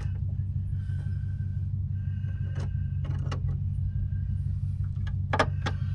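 An engine running steadily with a low drone, with a few sharp clicks and knocks, the loudest near the end.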